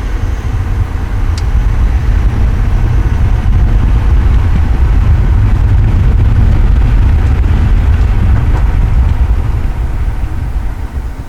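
A 2012 VW Touareg TDI driving, heard as a low, loud rumble of road and engine noise. It builds over the first couple of seconds and eases off near the end as the car slows for a gentle stop to bed in new front brake pads.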